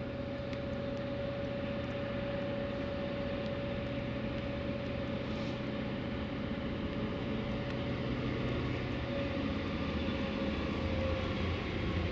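Three triple-headed Class 66 diesel locomotives, each with a two-stroke V12 engine, running as they approach. The rumble with a steady whine over it grows slowly louder, with the deep rumble building near the end.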